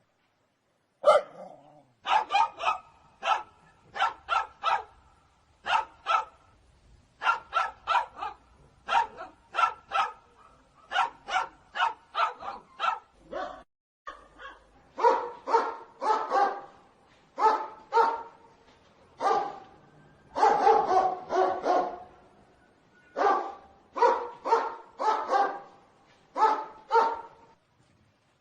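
Dog barking over and over in quick runs of two to four sharp barks, with short pauses between runs.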